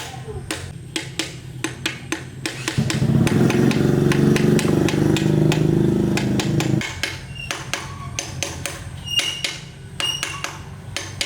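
Repeated light taps and knocks of tools on metal, with a motor running steadily for about four seconds in the middle and cutting off suddenly.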